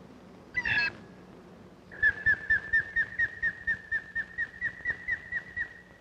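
A bird calling: one short harsh call, then a rapid series of about sixteen short whistled notes, about four a second, all on one pitch.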